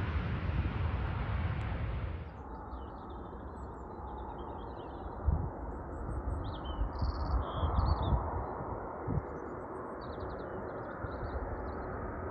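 Small birds chirping and singing in short scattered phrases over a steady low rumble, with a few low thumps of wind on the microphone. For the first two seconds or so, louder aircraft noise fills the sound and then cuts off abruptly.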